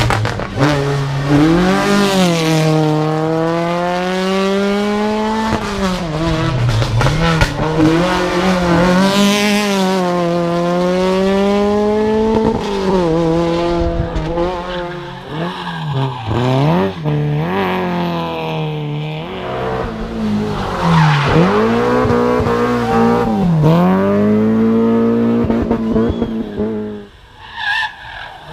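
Rally car engines revving hard through a corner, the pitch climbing and falling again and again with gear changes and lifts off the throttle, with tyres squealing as the cars slide. The level dips briefly near the end.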